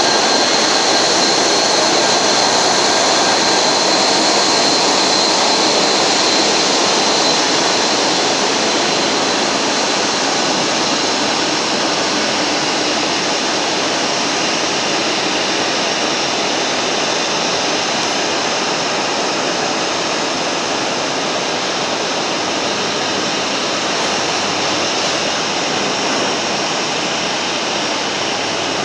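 Jet aircraft engines running: a loud, steady rush of noise with a thin high whine that fades over the first several seconds, the whole sound easing slowly.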